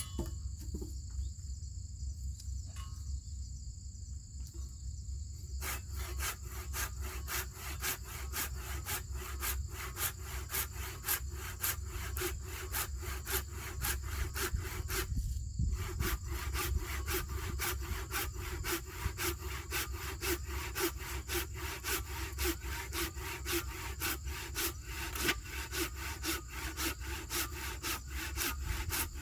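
A hand saw cutting through wood, starting about six seconds in with quick, even back-and-forth strokes that pause briefly about halfway and then carry on. Insects trill steadily before the sawing starts.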